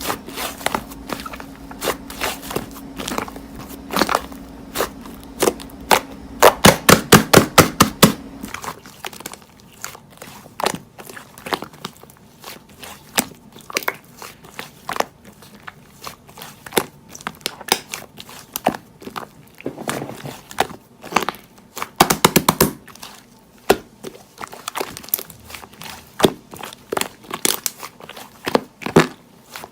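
Slime being squished and pressed by hand, giving many sharp sticky clicks and crackles. A fast run of loud clicks, about five a second, comes about seven seconds in, and a faint steady hum stops soon after.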